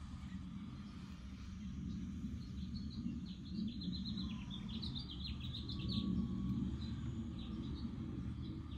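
Birds chirping in the background: a quick run of short, high chirps a few seconds in, with a few fainter ones after, over a steady low rumble of outdoor background noise.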